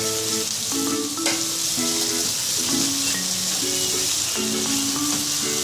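Shredded cabbage, capsicum and carrot sizzling in hot oil in a non-stick wok as they are stirred with a wooden spatula, over light background music of short, changing notes.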